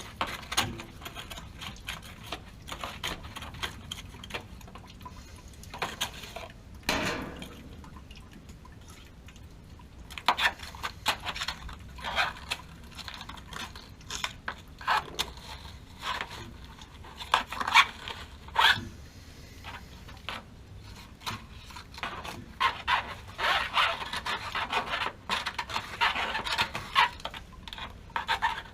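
Hand tools and metal parts of a gas water heater being worked: scraping and rubbing with many short clinks and knocks, the scraping heaviest near the end.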